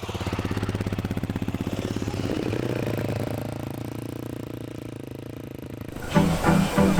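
Motorcycle engine running on the road, a steady rapid pulsing note. Music comes in about six seconds in.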